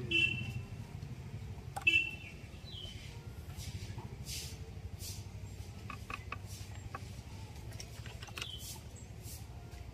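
Small birds chirping briefly a few times over a low steady hum, with a few soft clicks and light brushing sounds between.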